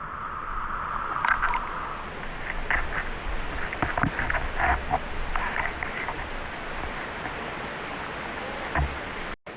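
Steady rush of a waterfall and its river, with scattered short clicks and splashy sounds over it. The sound cuts out for a moment near the end.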